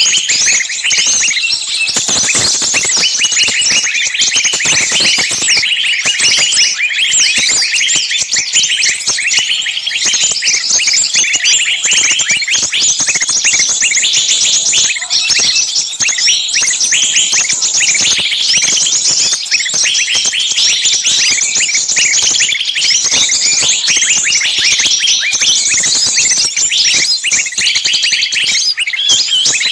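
Many small birds chirping and chattering together in a dense, unbroken chorus of quick high chirps.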